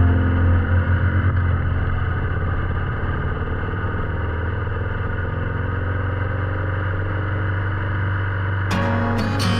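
Motorcycle engine running at a steady speed, a low, even drone.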